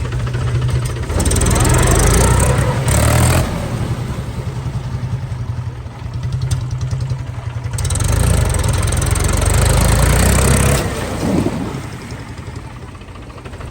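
Heavy diesel engine running with a steady low throb, revved up twice: about a second in for a couple of seconds, and again around eight seconds in for about three seconds.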